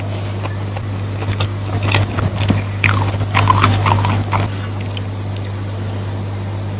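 Close-miked mouth sounds of someone eating rice with sweet soy sauce: wet chewing and lip-smacking clicks, bunched from about a second in to past the middle, over a steady low hum.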